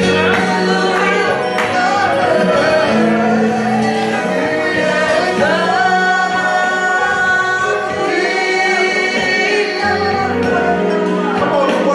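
Gospel praise-and-worship singing over sustained instrumental chords, with held, wavering sung notes.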